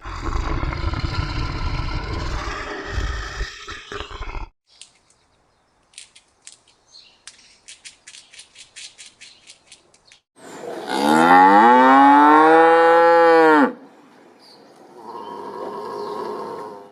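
Cow mooing: one long, loud moo whose pitch rises and then falls, about ten seconds in, with a quieter moo near the end. It is preceded by a rough call over a low rumble and a run of sharp clicks.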